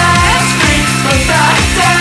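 Post-punk dance band playing loud and full: a driving drum beat of about four kicks a second under bass and distorted guitar.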